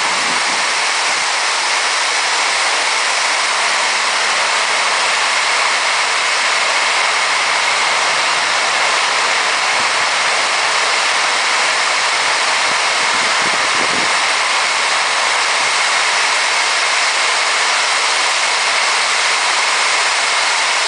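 Heavy rain pouring down as a storm picks back up: a loud, steady hiss.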